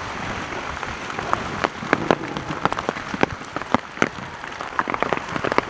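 Steady rain, with large drops ticking sharply and irregularly on something close by, the ticks coming thicker toward the end.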